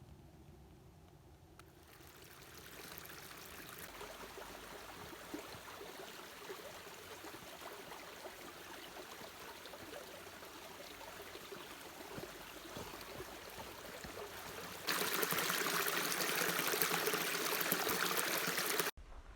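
Running water of a forest stream, a steady rushing that starts under two seconds in, jumps louder about fifteen seconds in and cuts off suddenly just before the end.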